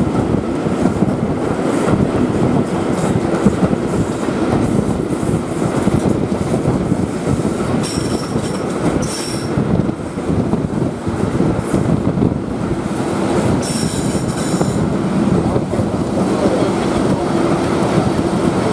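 Passenger train hauled by a Class 37 diesel locomotive running along the line, heard from an open carriage window: steady running noise with wheels clattering on the rails. A short high-pitched wheel squeal comes about 8 seconds in and again around 14 seconds.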